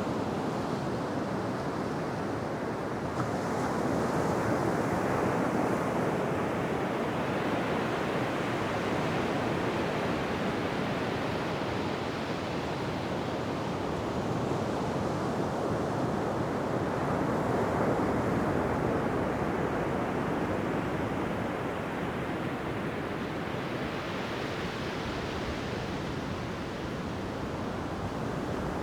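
Ocean waves breaking and washing on a beach, a steady surf that swells and ebbs slowly, with louder swells a few seconds in, around the middle and again near the end.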